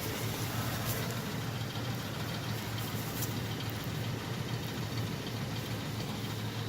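2002 Ford Explorer's 4.6-litre V8 idling steadily, an engine that starts and runs but has hardly any power because of an undiagnosed engine fault.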